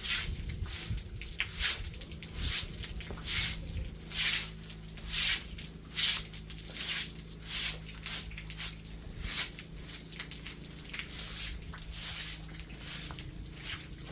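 A series of swishing strokes, about one a second and fairly loud at first, then quicker and fainter from about halfway, over a low steady hum.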